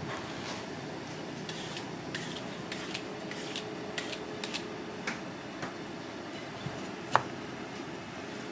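Kitchen clatter: scattered clicks and short scraping strokes of utensils over a steady background noise, with one sharper click about seven seconds in.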